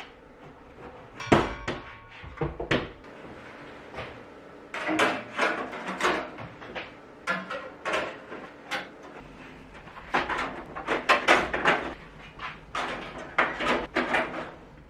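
Irregular clatter of small metal parts being handled, set down and tapped: a dozen or more sharp knocks and clicks in uneven clusters, the first loud strike about a second in ringing briefly.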